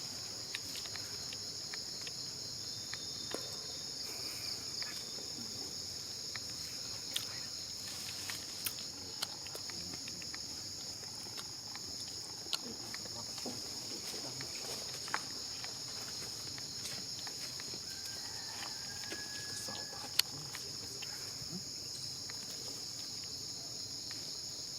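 A steady chorus of insects, a continuous high drone, with scattered small clicks and taps throughout. One sharp tap about twenty seconds in is the loudest sound.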